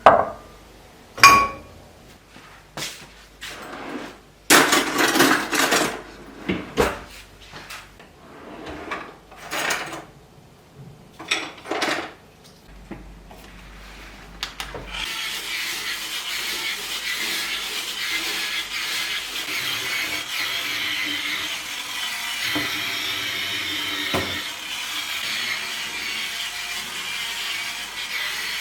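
Kitchen cleaning: scattered knocks and a ringing clink of objects being handled, a stretch of scrubbing or rubbing, then a steady hiss that starts about halfway through and carries on.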